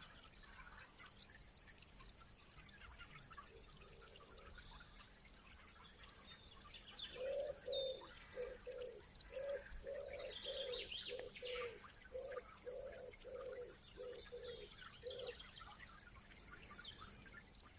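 Faint wild birdsong: small birds chirping and whistling high. From about seven seconds in comes a run of low cooing notes, about two a second, that stops near fifteen seconds.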